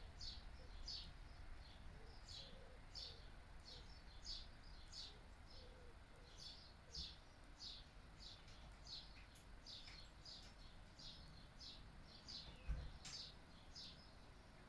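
Faint songbird chirps, short falling notes repeated about twice a second, over a low rumble of breeze. A single sharp click near the end.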